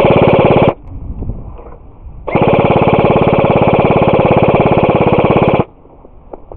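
Loud electric signal buzzer sounding in two long blasts. The first cuts off under a second in, and the second starts after a gap of about a second and a half and lasts about three seconds.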